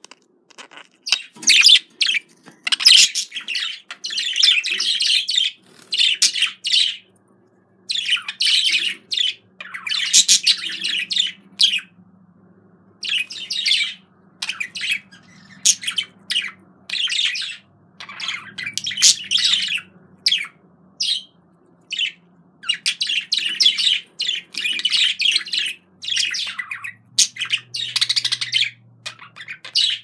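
Small birds chirping in busy bursts of one to three seconds, with short pauses between.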